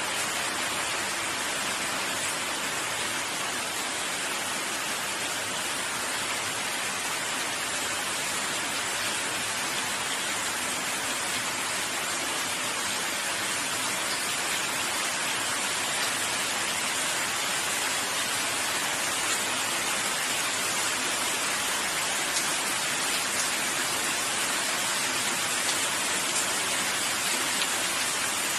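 Steady rain falling, an even hiss of many drops with faint individual drop ticks, growing slightly heavier near the end.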